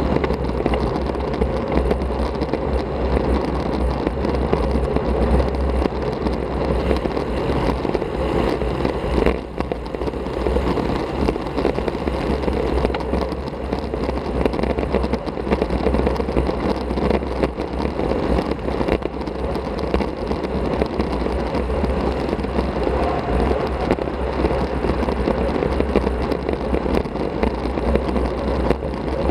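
Steady rush of wind on an action camera's microphone, with tyre and road noise from a road bike riding at speed. The sound dips briefly about nine seconds in.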